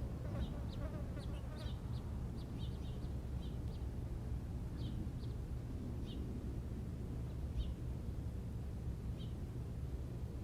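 Small birds chirping: short high chirps, quick and busy in the first couple of seconds, then single chirps about every second. A steady low rumble runs underneath.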